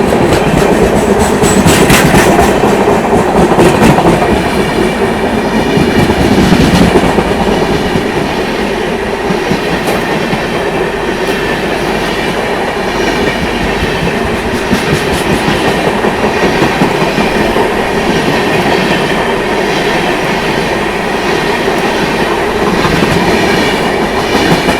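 Train running along the track: a continuous rumble with the wheels clacking over rail joints, a little louder in the first several seconds.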